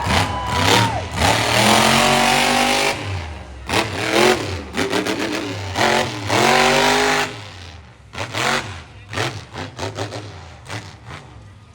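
Monster truck engine revving hard, its pitch sweeping up and down in repeated surges. After about seven seconds it drops back to quieter, shorter bursts of throttle.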